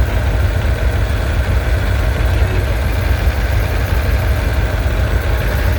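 Allis-Chalmers D19 tractor engine idling with a steady, deep running sound.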